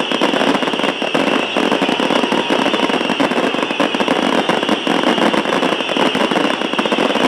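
Fireworks finale: a dense, unbroken barrage of bangs and crackling shells.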